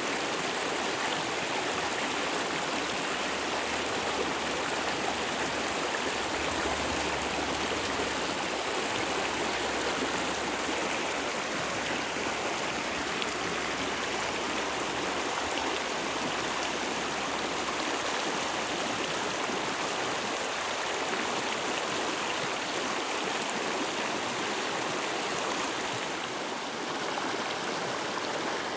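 Mountain stream rushing steadily over rocks, an even wash of water noise.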